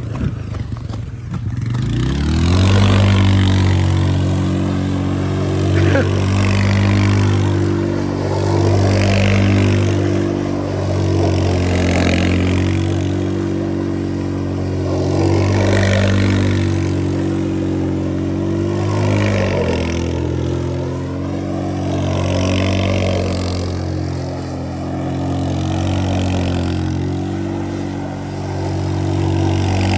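A car engine revs up about two seconds in and is held at high revs for a long stretch, its pitch wavering up and down, as in a long burnout.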